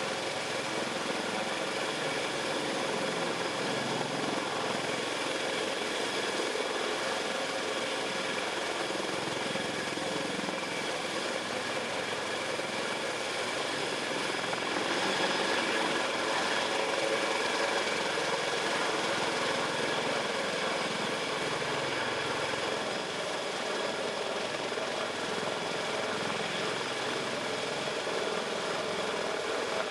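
Sikorsky CH-53K King Stallion heavy-lift helicopter running, its turboshaft engines whining in many steady tones over a dense rotor and engine noise. It gets a little louder about halfway through, then settles.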